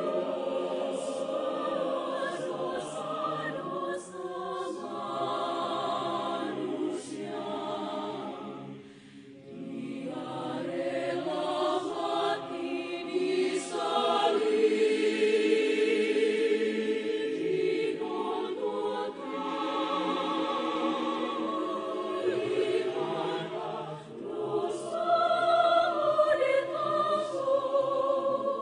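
Mixed choir singing a sacred hallelujah anthem in several voice parts, with held notes and vibrato; the sound dips briefly about nine seconds in before swelling again.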